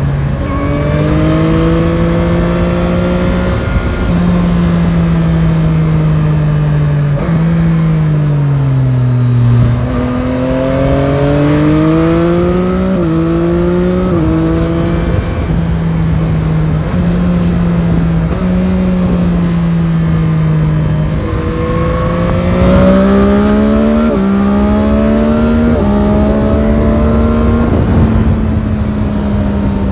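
Yamaha Tracer 9 GT's CP3 three-cylinder engine heard from the rider's seat, its pitch rising under throttle and falling off again. Several sudden steps in pitch come from gear changes as the bike is ridden along a winding road.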